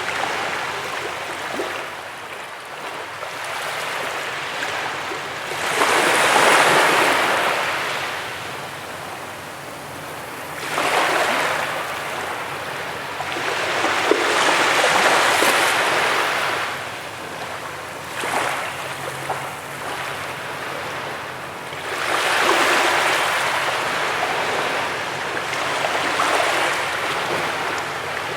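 Sea waves breaking and washing up on a beach, the surf swelling into a loud hiss about six times, a few seconds apart, between quieter wash.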